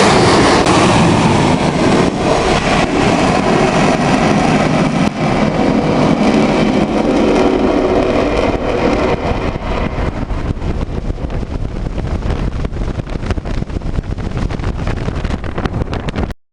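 Loud jet noise from an AV-8B Harrier's Rolls-Royce Pegasus turbofan, the roar gradually fading and losing its hiss over the second half as the jet draws away, then cutting off abruptly near the end.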